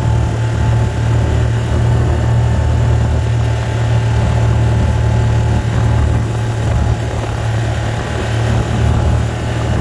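Steady low engine and road rumble heard from inside a car's cabin while driving.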